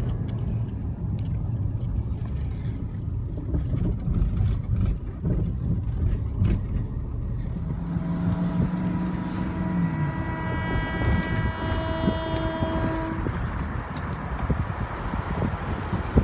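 A vehicle engine running with a steady low rumble, joined in the middle by a held tone of several pitches lasting about five seconds.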